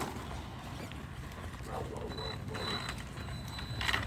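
Electric 3S 4x4 RC truck driving on pavement: the motor and gears run with a thin high whine that comes and goes, over a low rumble of the tyres.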